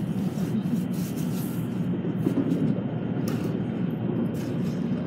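Steady low rumble of a Shinkansen bullet train running at speed, heard from inside the passenger cabin, with a few short rushes of hiss.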